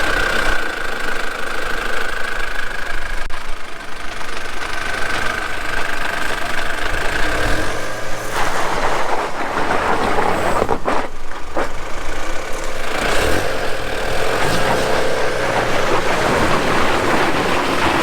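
Vehicle engine running during a strap recovery of a stuck Land Rover Defender. A steady high whine sits over it at first, and about eight seconds in the sound changes to a fuller, noisier running.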